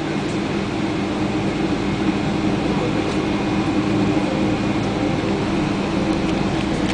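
Steady cabin noise inside a taxiing Boeing 777-200ER: the engines at taxi idle and the air conditioning, a low, even hum and rumble with a few steady low tones.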